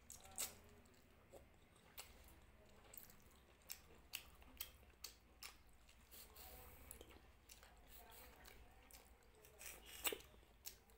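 Faint close-miked mouth sounds of a person eating with her fingers: chewing with irregular wet smacks and lip clicks, the loudest smack near the end.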